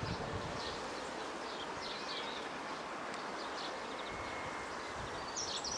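Small birds giving faint, scattered high chirps over steady outdoor background noise; near the end one bird starts a rapid, high trill that grows louder.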